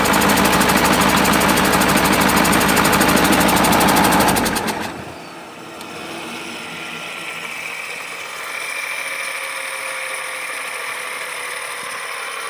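KAMAZ truck diesel engine running with a rapid, even firing beat, then cut off abruptly about five seconds in, leaving a quieter steady hum.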